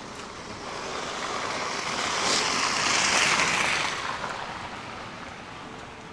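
A vehicle passing on a snow-covered street, its tyre hiss swelling to a peak about three seconds in and then fading away.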